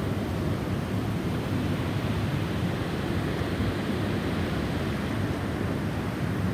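Snowstorm wind blowing steadily, a low, even rush of noise with no gaps.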